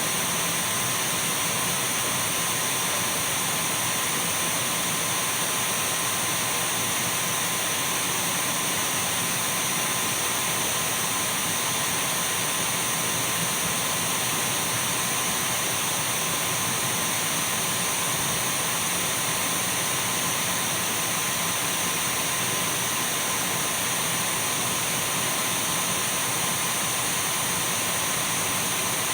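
Dyson V12 cordless stick vacuum cleaner running steadily: an even, hissing rush of air with a constant high whine from its motor.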